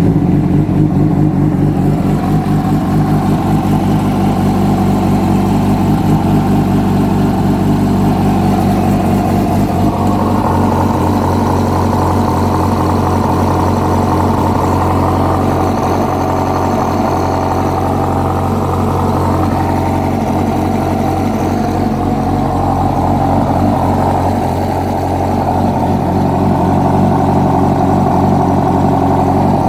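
2006 Yamaha R1 inline-four engine running steadily at idle, carrying an engine noise that the owner traced to a failing number 4 connecting-rod bearing; a new cam chain tensioner did not cure it.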